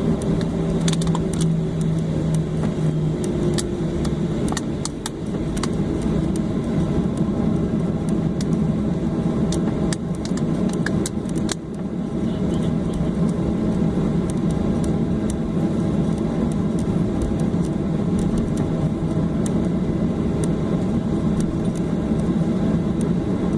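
Steady low rumble inside the cabin of a Boeing 737-800 on the ground after landing. Scattered light clicks and rattles come through, mostly in the first half, and a low hum drops out a few seconds in.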